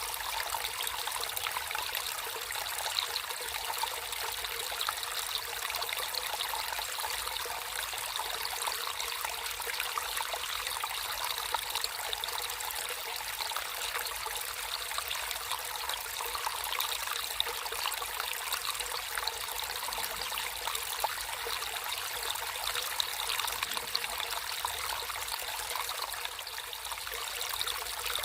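Water flowing and trickling steadily, a constant bright hiss with many small splashes throughout.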